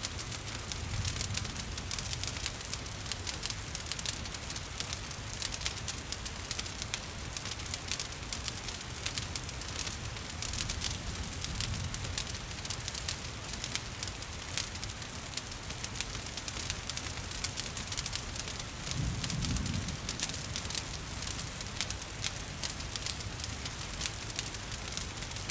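Wood fire crackling with many small sharp pops over a steady hiss of gentle rain. A brief low rumble swells up about three-quarters of the way through.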